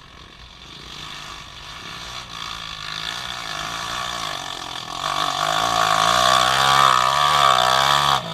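Off-road vehicle's engine revving hard under load, its pitch rising and falling as the throttle is worked, getting steadily louder before dropping off sharply near the end.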